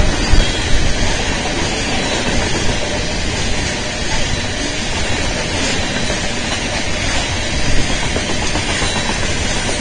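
Loaded coal hopper cars of a freight train rolling past: a steady rumble and hiss of steel wheels on the rails, with a few louder clacks in the first second and once near the end.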